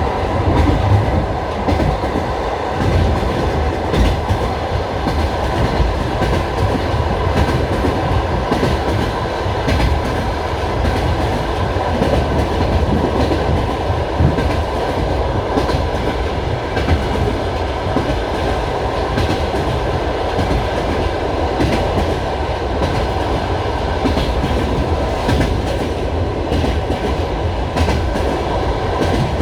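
Passenger railway carriage running along the track, heard from inside the car: a steady rumble of wheels on rails with irregular clicks as the wheels pass over rail joints.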